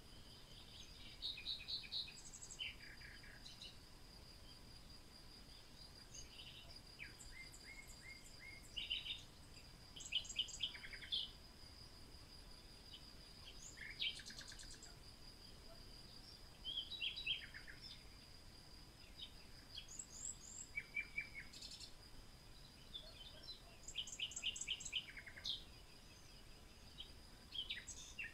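Birds chirping and singing in short trills of quickly repeated notes, several calls overlapping, over a thin steady high-pitched whine.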